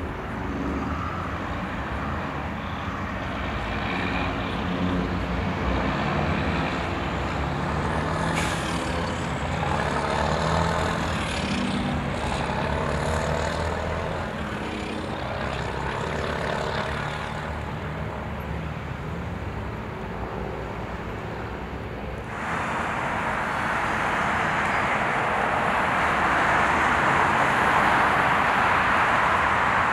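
Road traffic: motor vehicles passing, with engine drone and rising and falling tyre and engine pitches. About two-thirds of the way in, a louder steady hiss sets in suddenly and continues.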